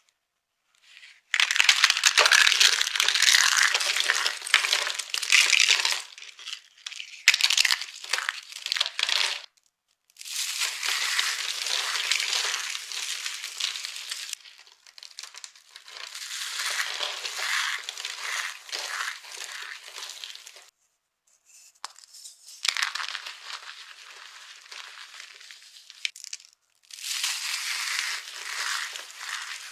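Dry soap being crushed and crumbled, a dense crackling crunch in five long bouts separated by short pauses.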